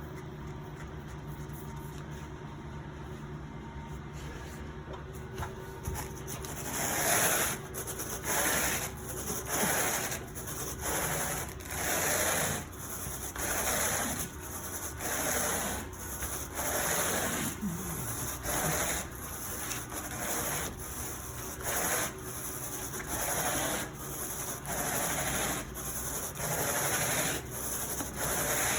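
Carpet rake dragged through carpet pile in regular rasping strokes, about one every second and a bit, starting about seven seconds in, over a steady low hum.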